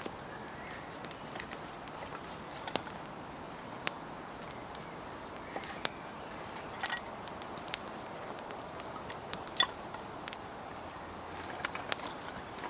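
Small campfire of twigs and birch bark crackling, with sharp pops at irregular intervals over a steady hiss.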